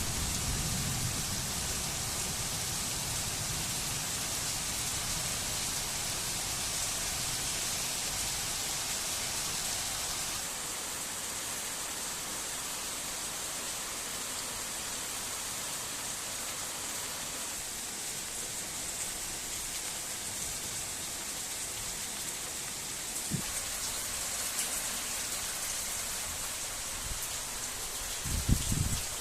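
Steady rain falling, an even hiss throughout, with a brief low thump late on and a short low rumble near the end.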